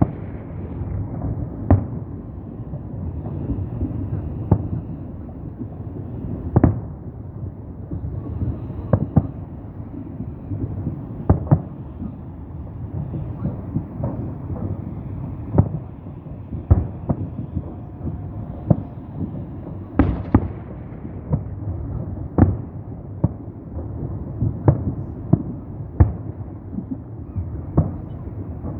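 Fireworks salute: a long run of booming bursts at irregular intervals, roughly one every second or two, over a steady low rumble. The biggest bang comes about two-thirds of the way through.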